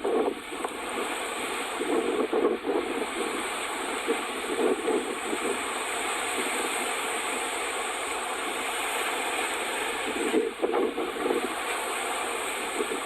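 Strong wind buffeting the microphone as a steady rushing noise that surges in gusts several times.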